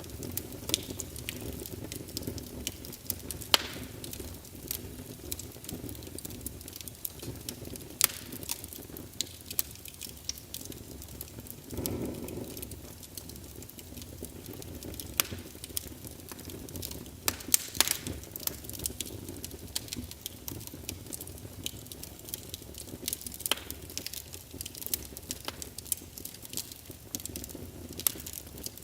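Wood fire burning in a fireplace: a steady low rumble of the flames with sharp, irregular crackles and pops of the burning wood, and a brief louder whoosh about twelve seconds in.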